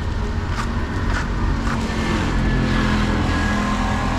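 Steady low rumble of a motor vehicle or road traffic, with a few faint clicks in the first two seconds.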